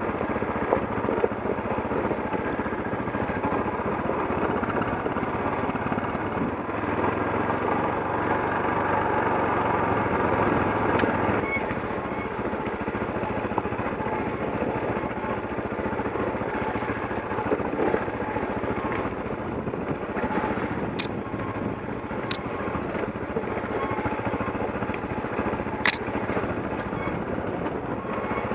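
KTM 640 Adventure's single-cylinder engine running at low revs on a rough gravel descent, with knocks and clicks from the bike jolting over stones. The engine note swells for a few seconds about a third of the way in, then drops back.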